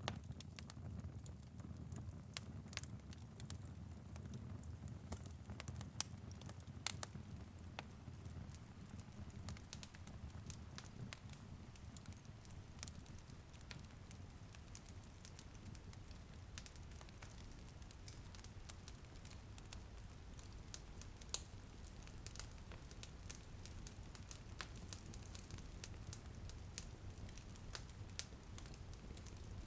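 Wood fire crackling and popping in a fireplace, with scattered sharp snaps over a low steady rumble of the flames and a faint patter of light rain on a window.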